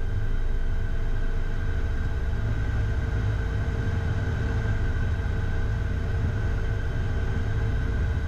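Steady cockpit noise of a Beechcraft Premier I business jet on the ground with its engines idling: a low rumble with steady whining tones above it.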